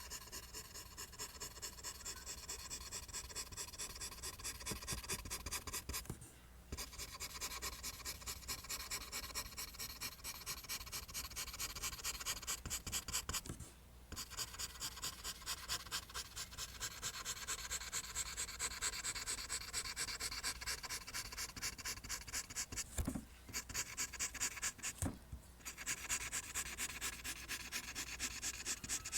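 Pencil drawing lines on paper: quick, evenly repeated scratching strokes that pause briefly four times.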